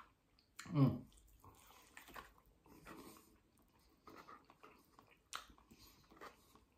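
A man chewing and smacking on a sticky barbecue-sauced chicken wing: soft wet clicks and smacks of lips and meat pulled from the bone. About a second in, a short voice-like sound drops steeply in pitch, the loudest thing here.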